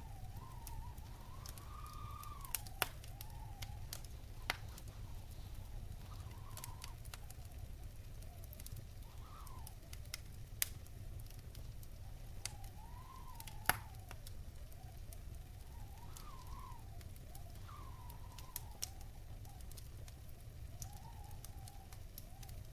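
Wood fire burning in a fireplace, crackling with scattered sharp pops over a low steady rumble. A faint tone wavers up and down underneath.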